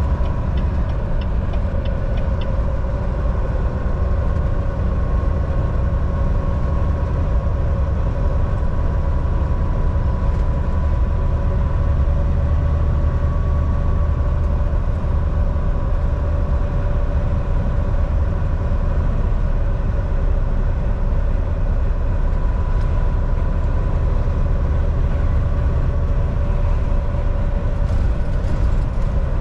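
Volvo VNL 760 semi-truck at highway speed: a steady diesel engine drone with deep road rumble and a constant mid-pitched hum. A few faint ticks sound in the first couple of seconds.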